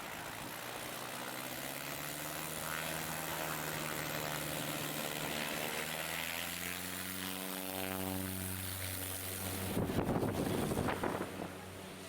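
Ultralight aircraft's propeller engine running, its pitch climbing steadily for several seconds and then fading away. A loud rushing noise cuts in about ten seconds in and drops off near the end.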